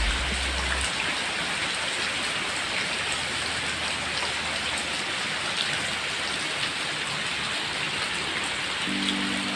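Steady rain falling, an even hiss of drops on surfaces with scattered single drop ticks.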